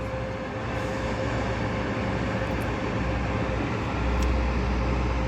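A steady low rumble and hiss inside a car's cabin as it sits in slow traffic, with a faint steady hum. The rumble swells about four seconds in.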